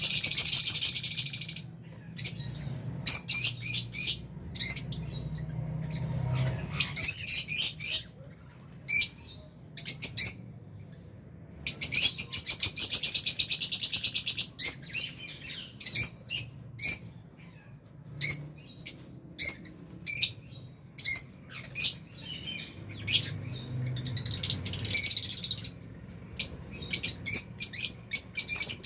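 A flock of lovebirds, Fisher's and albino, chirping and chattering: sharp, shrill chirps in quick runs, with a longer unbroken burst of chatter about halfway through.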